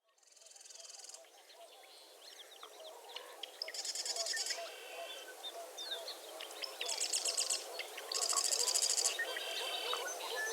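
A dawn chorus of many birds at a wetland refuge, fading in at the start. High, rapid trills repeat every couple of seconds over a dense low chatter of calls.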